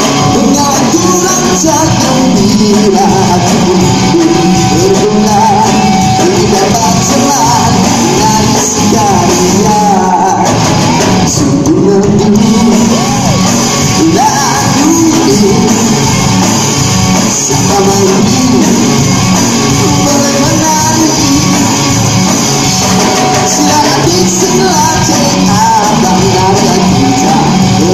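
Live band playing a song with a singer, loud and continuous.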